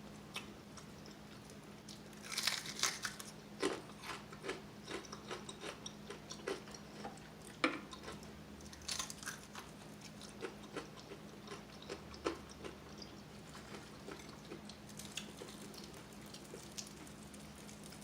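Close-up crunching and chewing of crispy fried chicken wings, the breaded skin crackling in short bursts of bites.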